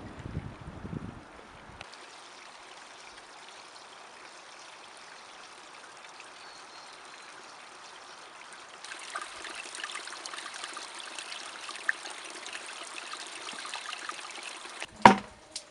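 Stream water running and trickling steadily, louder and brighter about two-thirds of the way through. A low rumble fades out in the first two seconds, and there is one sharp knock near the end.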